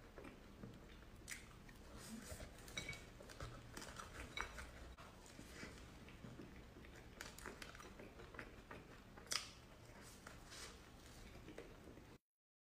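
Close-miked chewing and biting of cream puffs: irregular small wet clicks and crackles of mouth sounds, cut off abruptly into silence near the end.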